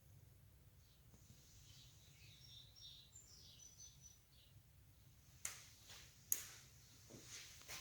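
Faint bird chirps, then a few sharp, separate clicks in the second half.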